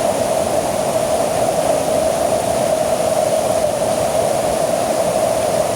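Steady rushing of falling water at a waterfall, an unbroken loud noise with no change.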